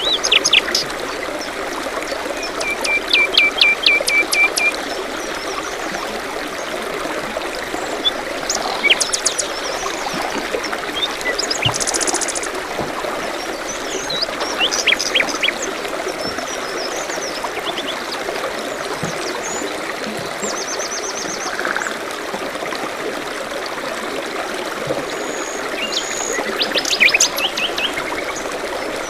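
A small stream trickling steadily, with songbirds calling and chirping over it: a quick run of repeated notes a few seconds in, then scattered trills and chirps, with a busier burst near the end.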